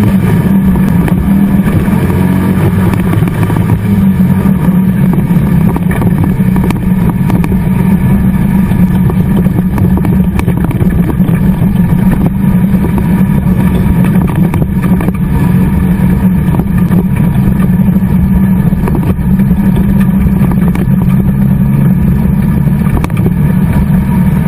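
Race car engine running hard and loud, heard from inside the cockpit, at a fairly steady high pitch with occasional knocks.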